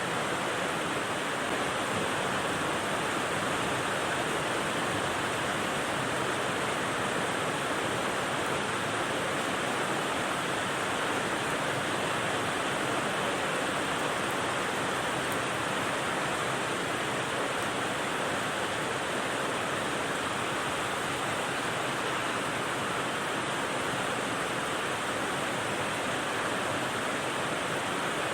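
Rain white noise: a steady, even hiss with no single drops or changes standing out.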